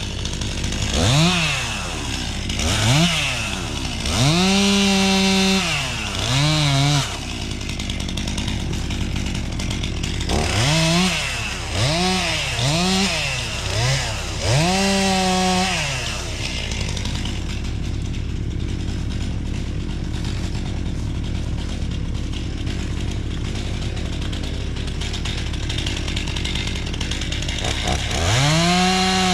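Chainsaw revving in a series of short throttle blips, a few held for a second or so, idling steadily in between, then held at high revs near the end.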